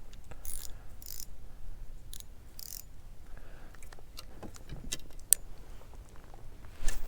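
Spinning reel worked while casting and retrieving a spinner lure: a few short hissing bursts, then the reel's gears clicking and ticking as it is cranked. Near the end comes one louder knock.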